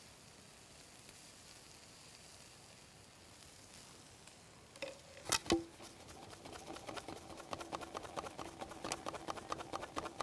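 Marinated pork belly grilling over charcoal: a faint sizzle at first, then two sharp knocks about halfway through, followed by a dense crackle of spitting fat that grows louder.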